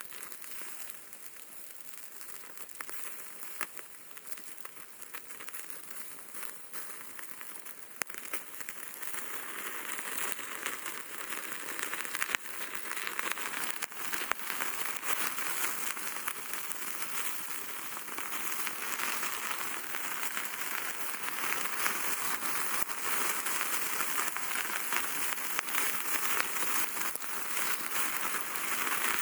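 Thin slices of pork loin sizzling and spitting as they cook over a wood fire in a fire pit, with crackling mixed in. The sizzle grows louder about ten seconds in, then stays steady.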